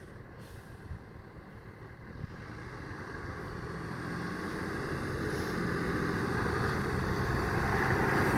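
A motor vehicle running, growing steadily louder throughout.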